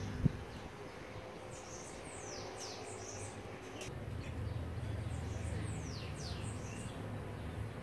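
Small birds chirping: several quick, high, downward-sweeping calls in two bursts, around two and six seconds in, over a low steady hum. A short dull knock sounds just at the start.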